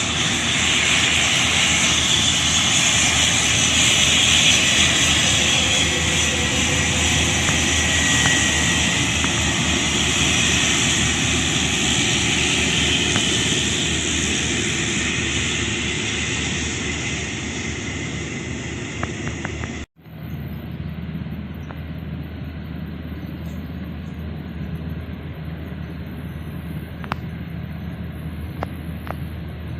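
Jet airliner engines, loud with a strong hiss that slowly fades over about twenty seconds. After a sudden cut, a quieter steady jet engine noise continues.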